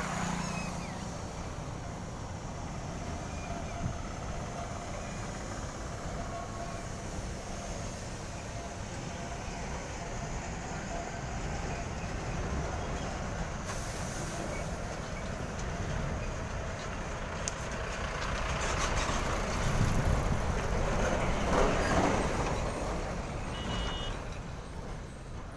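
Heavy goods trucks driving past on a road: a steady mix of engine and tyre noise. It swells as one passes close about twenty seconds in.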